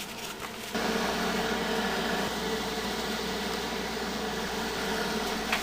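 A 1970 Triangle Mobile Home Products bathroom exhaust fan starts up about a second in and runs with a steady electric hum and whoosh of air. Its bearings are worn from long use dry and dirty.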